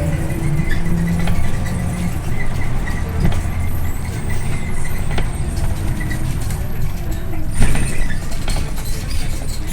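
Scania OmniLink I city bus heard from on board: its diesel engine running with a steady low drone whose pitch drifts slowly, over road and body noise. A short loud hiss comes about eight seconds in.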